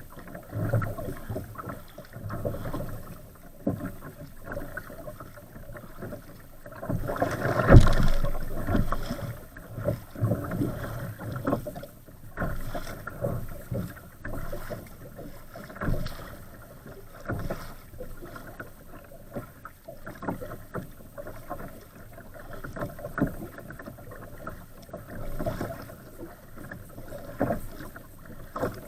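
Choppy, wind-driven waves slapping and splashing against an Old Town Castine 140 kayak's hull in irregular bursts, with one louder slap and splash about eight seconds in.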